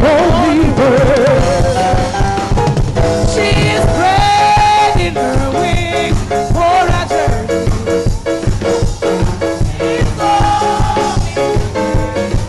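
Gospel band playing an instrumental passage, with a drum kit keeping a steady beat under pitched melody lines.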